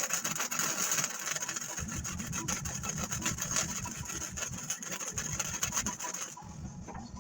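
Welding arc crackling steadily as steel frame rails are welded, stopping about six seconds in. A low, rapidly pulsing rumble joins about two seconds in and stops with it.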